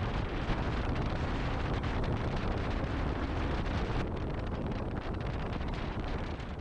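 Steady rush of wind buffeting the microphone, with a heavy low rumble underneath.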